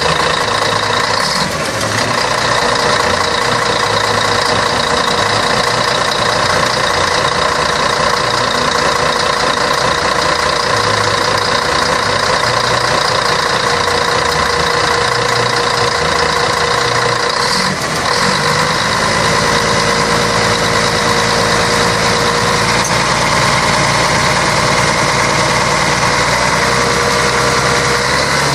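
Scania K113 bus's diesel engine running steadily, with two brief knocks, one about a second and a half in and one near eighteen seconds.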